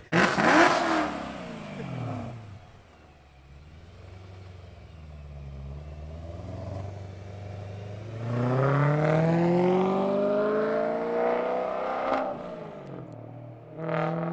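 BMW E92 M3's S65 V8 through a stainless steel valved exhaust: a loud rev falls away at the start, then after a quieter stretch the engine pulls hard with its pitch climbing steadily. Near the end the note dips briefly at a gear change and the revs start climbing again.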